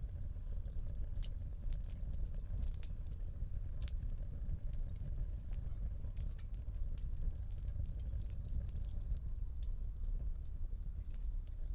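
Wood fire crackling in a fireplace: frequent small, irregular sharp pops over a steady low rumble of burning.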